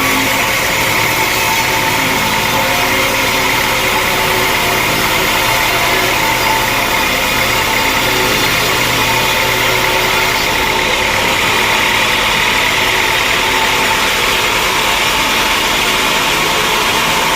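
Sawmill machinery running steadily with an unbroken mechanical drone.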